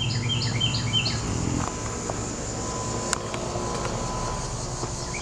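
A songbird sings a quick phrase of about four repeated two-note figures at the start, over a low steady motor hum that eases about a second and a half in and a faint steady high insect drone.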